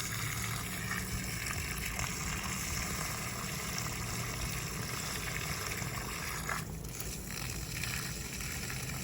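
Water running steadily from a hose pipe into a garden bed, with a steady low hum underneath.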